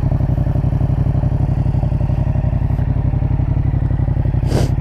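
Yamaha MT-07's 689 cc parallel-twin engine idling steadily through an SC Project Conic 2-in-1 slip-on exhaust with the baffle in, giving an even, low rumble. A short scuffing noise sounds near the end.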